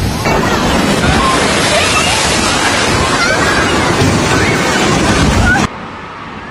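Loud rushing storm noise of wind and breaking waves buffeting the microphone, with faint voices in the background. The noise drops away abruptly near the end.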